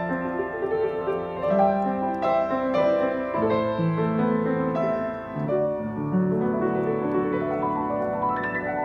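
Piano playing a slow, gentle piece: sustained chords under a moving melody, with notes changing at an unhurried pace.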